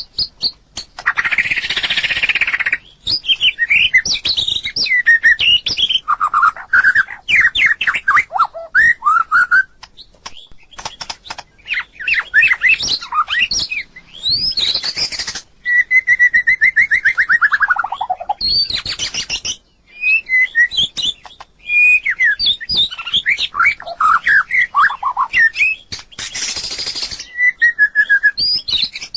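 White-rumped shama singing: a varied run of quick whistled phrases and trills, with harsh rasping notes several times and one long falling series of notes about halfway through.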